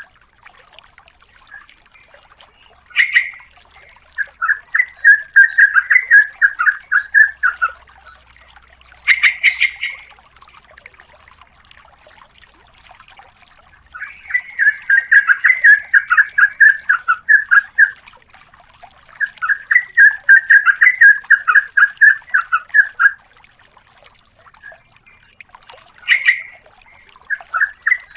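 Sooty-headed bulbul (trucukan) song: several bouts of fast, repeated chattering notes, each lasting a few seconds, with short sharper calls between the bouts.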